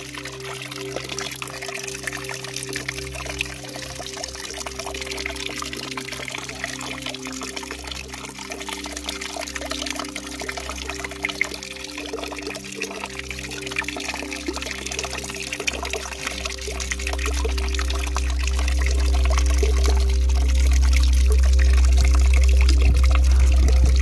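Water pouring and splashing steadily from a fountain. About two-thirds of the way through, a deep low rumble swells in and becomes the loudest sound.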